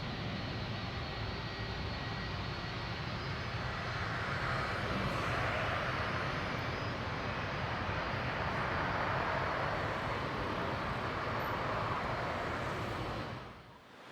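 A Boeing 757-300 airliner's jet engines running as it passes, a steady rushing noise that grows louder about four seconds in and then cuts off sharply near the end.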